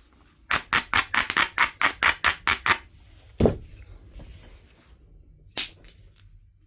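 Knife River Flint biface being worked: a quick, even run of about a dozen sharp strokes on the stone's edge, about five a second, then a single heavier strike with a low thud a little after halfway and one more sharp click near the end.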